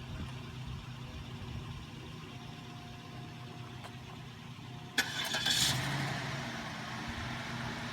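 Cadillac DeVille engine starting about five seconds in with a sudden loud catch, then settling into a steady, quiet idle with its leaking vacuum line gasket freshly repaired.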